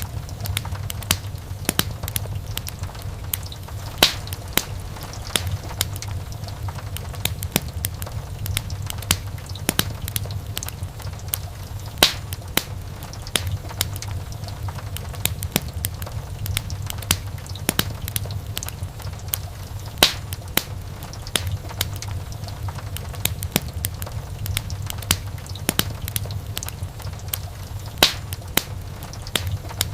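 Wood fire crackling in a fireplace: a constant scatter of small snaps over a low, steady rumble, with a louder pop about every eight seconds.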